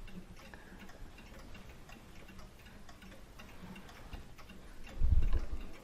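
Faint, steady ticking of a mechanical clock, with a brief low thump near the end.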